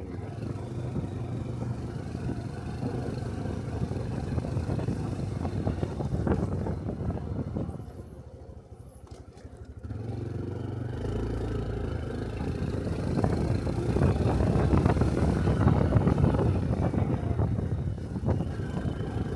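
Honda Cub 125 cc single-cylinder motorcycle running on the road, with wind noise on the microphone. About halfway it drops to a brief quieter spell, as when slowing to a stop, then picks up again and gets louder as it pulls away and accelerates.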